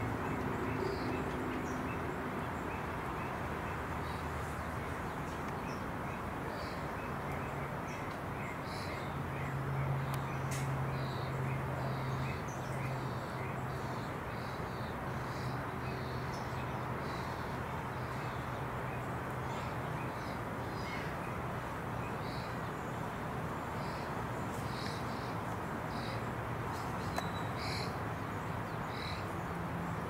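Birds calling: short, high notes scattered through the whole stretch over a steady background hiss, with a low hum coming in for a few seconds near the middle.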